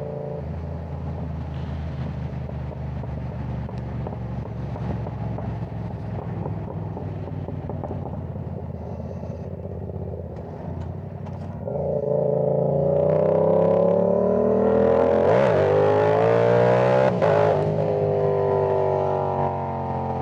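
Yamaha R7 motorcycle engine running through an aftermarket side-mounted exhaust, heard from inside the rider's helmet. It runs steadily at first. About twelve seconds in it accelerates hard and gets much louder, the pitch climbing and dropping sharply twice, then eases off near the end.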